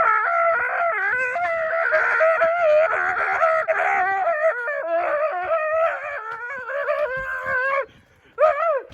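A high-pitched voice makes a long, wordless, wavering cry that goes on for about eight seconds and breaks off near the end. One short cry follows just before the close.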